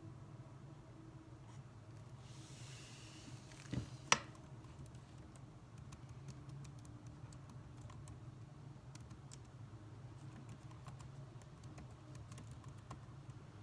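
Faint computer keyboard typing: irregular light key clicks, thickening in the second half, over a steady low hum. About a third of the way in there is a soft thump and then a single sharper click, the loudest sound.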